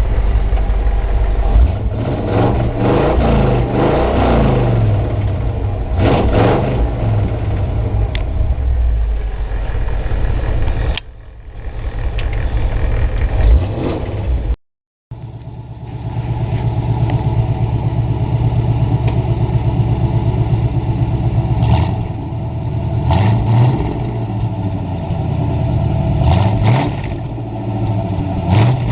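1989 Chevrolet K5 Blazer's 350 small-block V8 running through true dual glasspack mufflers, idling with repeated revs that rise and fall in pitch. The sound dips about halfway through and cuts out for a split second before the engine note returns.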